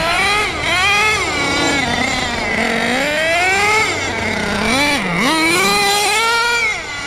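HPI Savage X4.6 nitro monster truck's 4.6 cc glow engine revving up and down under throttle, its pitch climbing and falling in several surges and dropping low about five seconds in before climbing again. The engine is tuned rich.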